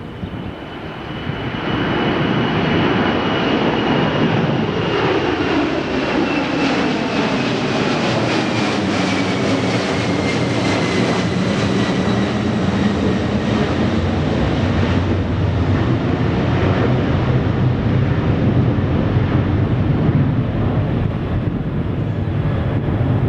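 Jet airliner passing on its takeoff run, its engines loud and steady, with a high fan whine falling slowly in pitch as it goes by.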